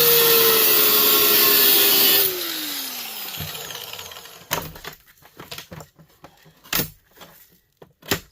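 A handheld power tool's motor runs at full speed with a steady whine and hiss, is released a bit over two seconds in and spins down, falling in pitch. Several sharp clicks and knocks of small metal parts being handled follow.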